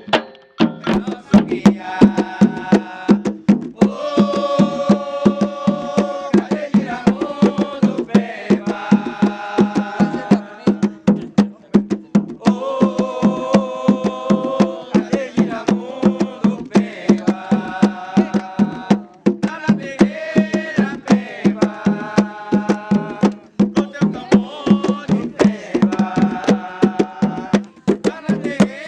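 Drumming under chanted singing: a steady hand-drum beat, several strokes a second, with a voice singing in repeated phrases a few seconds long, typical of a ritual chant in Umbanda or Candomblé.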